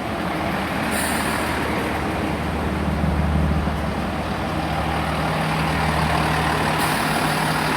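Two coupled Class 165 diesel multiple units pulling into the platform, their diesel engines giving a steady low hum that swells about three seconds in, then settles into a steady drone.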